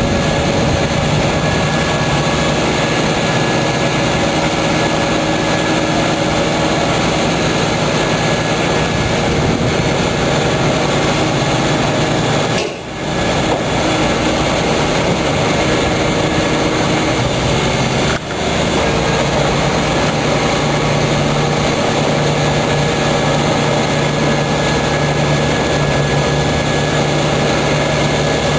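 Hooklift truck's diesel engine running steadily under load, with two brief dips in the sound about 13 and 18 seconds in.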